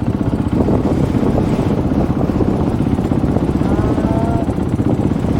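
Dirt bike engine idling with a fast, even pulse while the riders sit stopped, mixed with wind buffeting an unprotected microphone.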